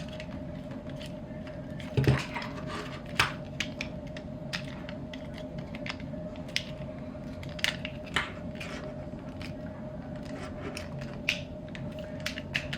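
Irregular clicks and knocks of plastic toy parts being moved and snapped into place while a Transformers Sandstorm figure is transformed, a few louder knocks about two and three seconds in, over a steady faint hum.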